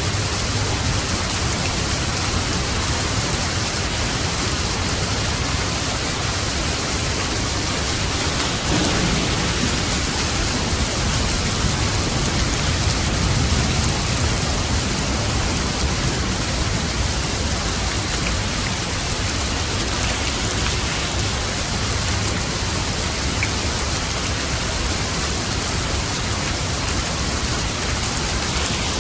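Steady heavy rain falling, an even hiss, with a low rumble of thunder swelling about nine seconds in.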